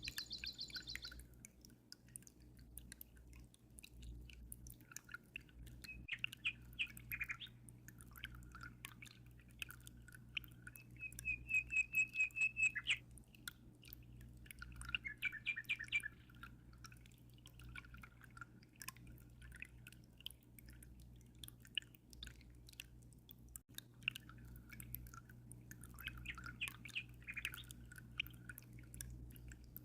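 Small birds chirping and calling on and off, with one fast, evenly pulsed trill about twelve seconds in, the loudest sound. Underneath are a steady low hum and faint ticking drips of water.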